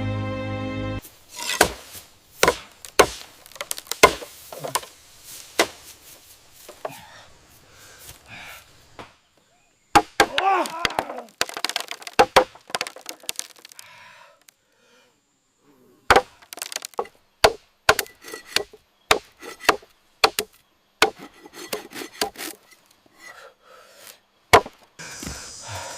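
Tools striking wood in irregular sharp knocks and chops, one or two a second, with a brief pause in the middle.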